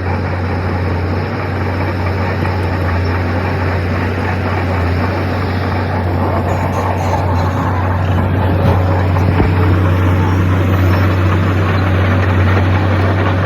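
Heavy diesel engine of earthmoving machinery running steadily: a loud low drone with dense mechanical noise above it, growing slightly louder in the second half.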